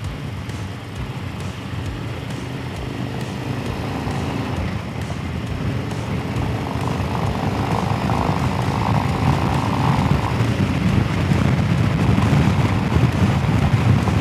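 Motorcycle engine running with wind rush while riding, growing steadily louder.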